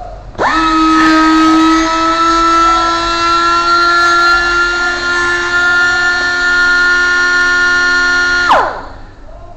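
Machine motor spinning up quickly, running with a loud steady whine for about eight seconds, then winding down and stopping.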